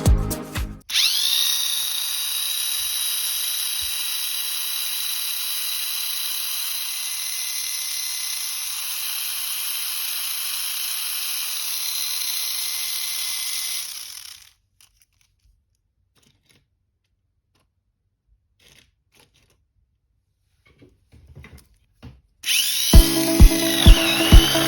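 Mini 4WD car's small electric motor and gear drive running at full speed: a high steady whine that rises as it spins up about a second in and cuts off after about thirteen seconds. After a quiet stretch with a few faint clicks, the drive starts again near the end with a loud, regular clacking knock, the abnormal drive noise being chased.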